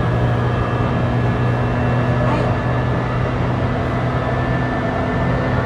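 Onboard running sound of a JR East E235-1000 series electric train: a steady rumble of wheels on rail with a low, even hum from the traction motors and a faint high steady tone.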